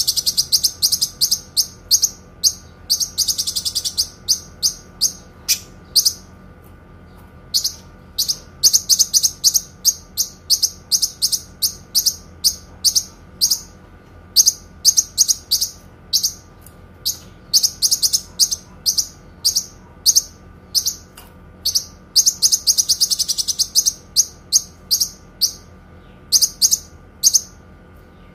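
Kinoi songbird singing long runs of sharp, high chirps in quick series, broken by a few brief pauses, with a longer unbroken trill about 3 seconds in and another about 22 seconds in.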